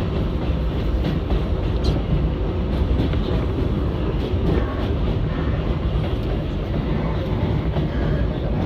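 R188 subway car running along the track, heard from inside the car: a steady rumble of wheels and running gear with faint clicks.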